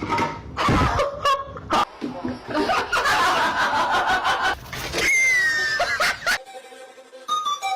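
Person laughing in short bursts. About five seconds in there is a high, wavering sound that falls in pitch.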